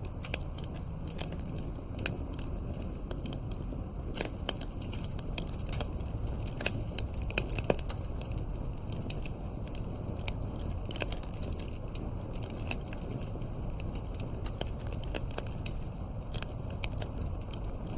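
Wood campfire crackling: frequent irregular sharp pops and snaps, a few of them louder, over a steady low rumble of the burning fire.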